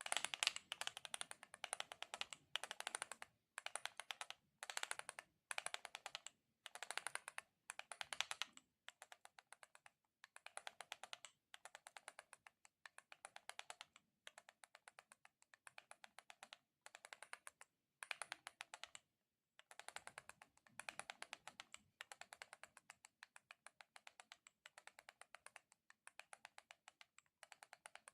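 A sticky ASMR surface crackling in short bursts, about one a second, louder for the first eight seconds and fainter after.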